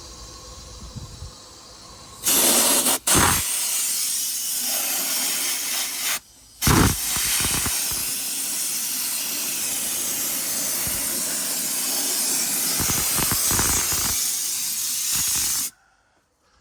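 Pressure-tank sandblaster hissing as abrasive sand is blasted through the hose nozzle, stripping flaking clear coat off a car wheel. The hiss starts about two seconds in, stops briefly once, and cuts off sharply near the end.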